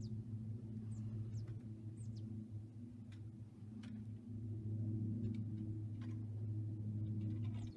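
A bird's short, high chirps, each falling in pitch, repeating about once a second over a steady low hum.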